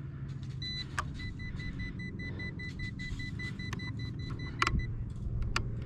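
Electronic beeping from an RC helicopter's radio transmitter: a brief higher tone, then a rapid run of identical short beeps lasting about four seconds, with a few light clicks from handling.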